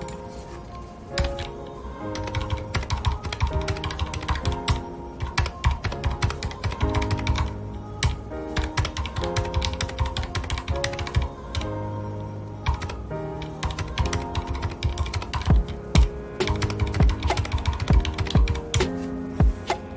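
Mechanical keyboard with red linear switches being typed on, a fast, irregular run of keystroke clicks. Music with held notes plays underneath.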